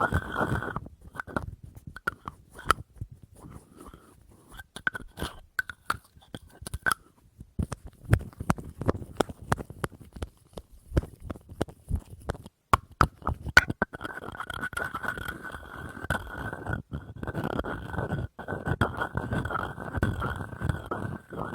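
Close-up tapping and scratching on small objects: quick sharp taps through the middle, then steady scratching or rubbing from about two-thirds of the way in.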